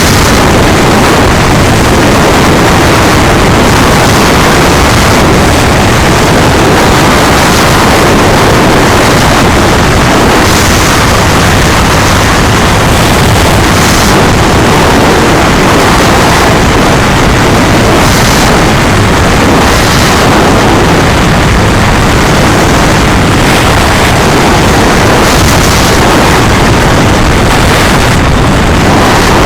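Loud, steady noise of a moving vehicle, engine and wind together, so strong it nearly overloads the microphone.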